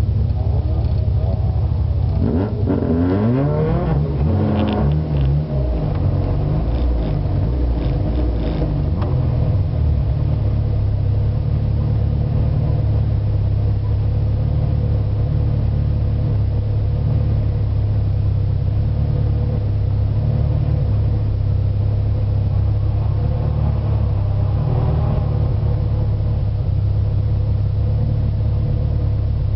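Rally car's engine heard from inside the cabin: revved a few times about two seconds in, the pitch rising and falling, then idling steadily with a deep, even hum.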